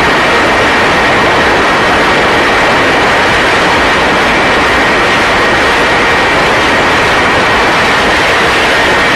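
A loud, steady vehicle roar with a constant high whine running through it, unchanging throughout.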